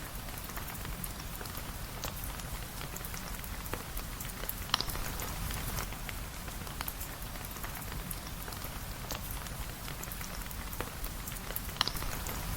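Steady rain falling, with scattered drips and small ticks through it. Two sharper ticks stand out, one a little before halfway and one near the end.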